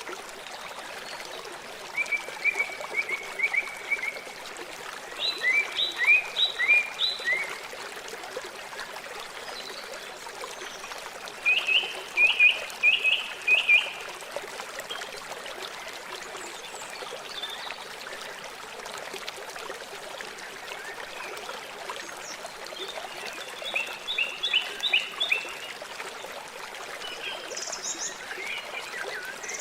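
River water flowing in a steady rush. A bird sings over it four times, each phrase a quick run of short chirping notes, with a higher call near the end.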